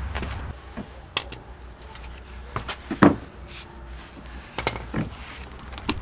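Irregular knocks and clicks of hands handling tools and parts, the loudest knock about three seconds in, over a steady low hum.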